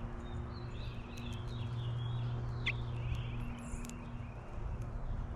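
Finches giving soft, high chirps and squeaks, with a few sharp clicks over a steady low hum.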